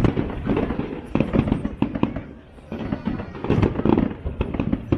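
Fireworks display going off: a rapid string of bangs and crackles, with a brief lull a little before halfway through.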